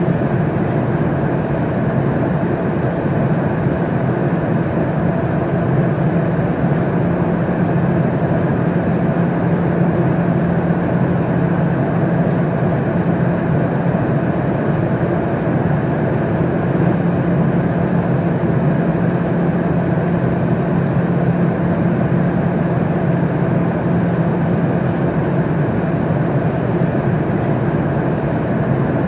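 Steady cabin noise of an airliner in flight: an even rushing roar from the engines and airflow, with a low hum underneath, unchanging throughout.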